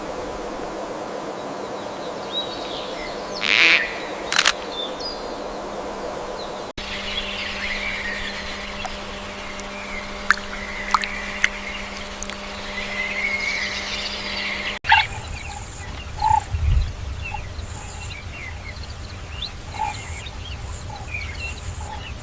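Outdoor nature ambience of birds chirping and calling, with a few sharp loud calls early on, a dense stretch of chirping in the middle, and short scattered calls near the end; the ambience changes abruptly twice, as separate recordings spliced together.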